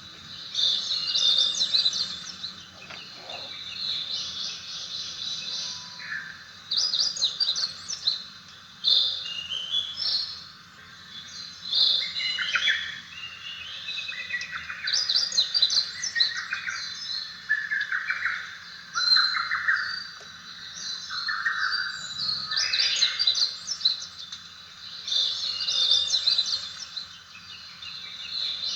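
Recorded birdsong, with many overlapping chirps and warbling phrases over a steady hiss, played back from a white noise machine's speaker as one of its nature sounds.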